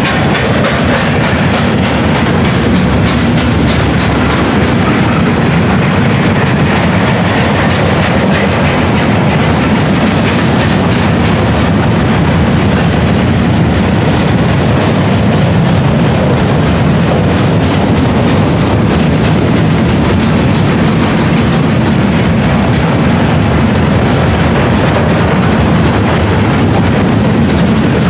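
Freight train of steel gondola cars rolling past close by: a steady loud rumble of wheels on rail with continuous clickety-clack.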